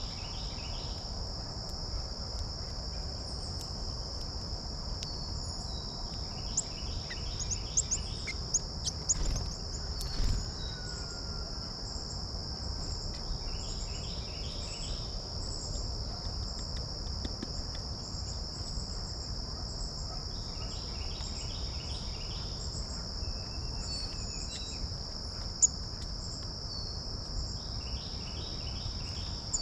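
A steady, high-pitched insect trill runs unbroken. A bird repeats a short song phrase about every seven seconds. A few sharp taps or clicks come about a third of the way in.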